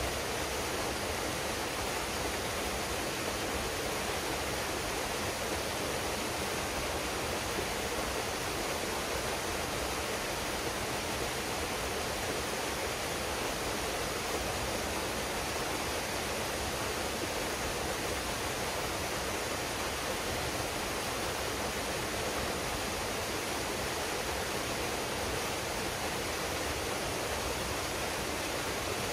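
A waterfall pouring into a pool, a steady even rush of falling water that does not change.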